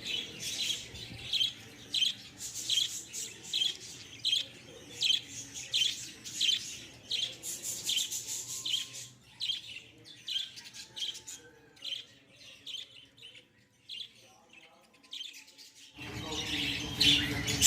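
Lovebirds in a colony cage calling with repeated shrill chirps, about one or two a second, which thin out about two-thirds of the way through.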